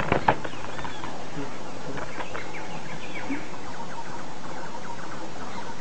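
Wild birds giving scattered short chirps and whistled calls over a steady background hiss, with a few sharp clicks right at the start.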